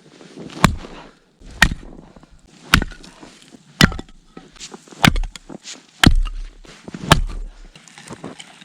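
Axe chopping wood: seven sharp strikes, about one a second, some with a dull thud under them.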